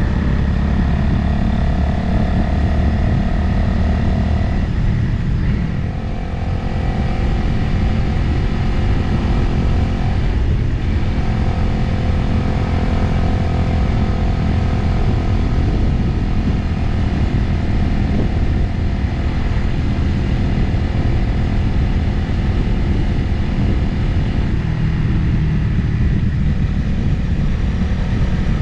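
Motorcycle engine running at road speed with heavy wind noise on the microphone. The engine note steadies, with brief changes about five and ten seconds in.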